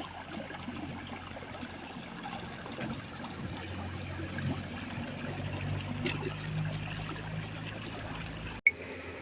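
Water trickling and flowing steadily, like a small stream. Near the end it cuts off with a sharp click.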